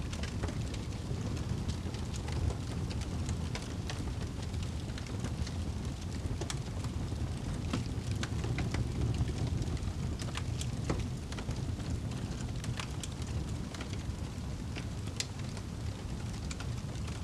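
Wood fire crackling, with irregular sharp pops, over a steady low wind rumble.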